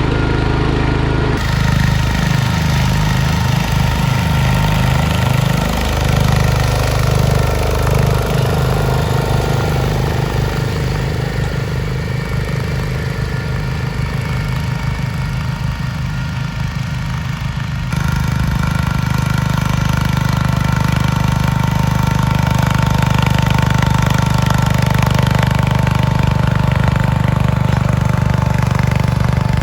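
Garden tractor engines running under load while plowing, a steady hum that changes abruptly about a second in and again about halfway through.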